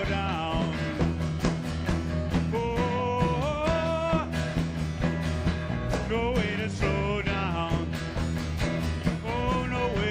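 Rock quartet playing an instrumental passage live. A lead line of sliding, bending notes runs over a steady bass line and drum beat.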